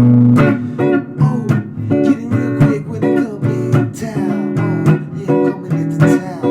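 Acoustic guitar playing a blues improvisation: a busy run of plucked notes and strummed chords, with a few sliding notes.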